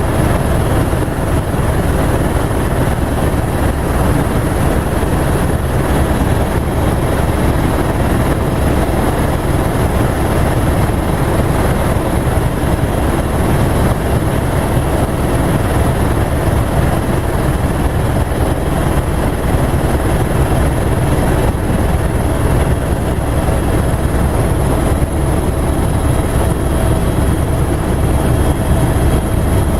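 Helicopter running steadily: an unbroken low rotor and engine drone with a thin high whine above it, unchanging throughout.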